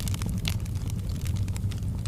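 Bonfire crackling, with irregular sharp pops and snaps of burning wood over a steady low rumble of the flames.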